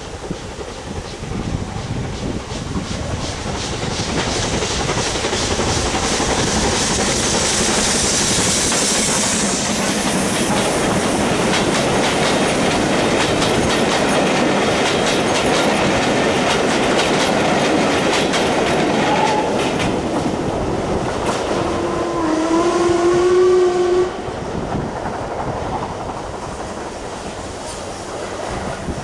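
A passenger train passing close by, its coach wheels clattering over the rail joints. The noise builds over the first few seconds, holds, then dies away near the end. About two-thirds of the way through, the train sounds a held pitched note for about two seconds, the loudest moment.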